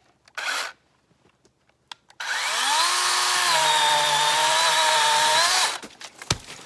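DeWalt XR 20-volt cordless electric chainsaw spinning up with a rising whine, then cutting through a dead birch trunk with a steady whine for about three and a half seconds before stopping abruptly. A sharp thump follows shortly after.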